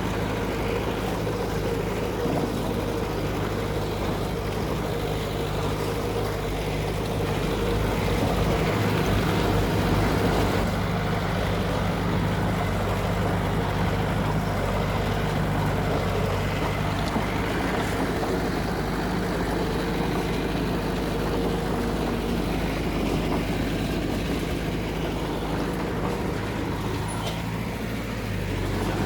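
Diesel engine of heavy earthmoving machinery running steadily under load, a little louder about eight to ten seconds in.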